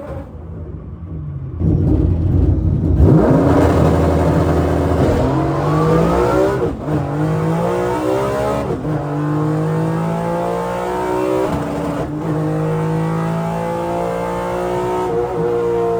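A 3.6-litre VR6 engine in a Mk2 Volkswagen launches hard on a drag run about two seconds in, after a low rumble. It then revs up through the gears of its dog-box transmission, the pitch climbing and dropping sharply at each of several upshifts.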